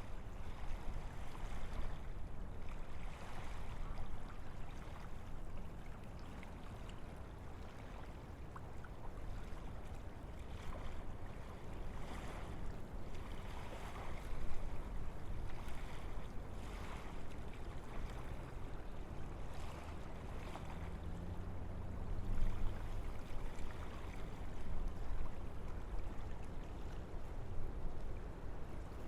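Wind blowing through forest trees, a steady rushing that swells and eases in gusts every few seconds over a low rumble.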